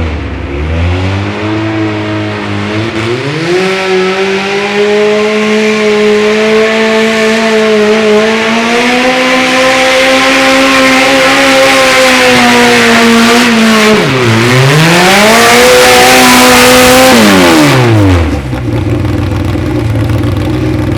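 Modified pulling garden tractor's engine revving up from idle and held at high revs for a long pull, its pitch rising slowly. About two-thirds of the way through the revs drop sharply and climb back, then near the end the engine is cut back quickly to idle.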